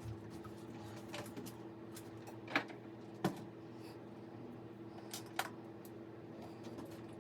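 A few scattered light clicks and knocks, the sharpest two about a third of the way in, over a steady low hum.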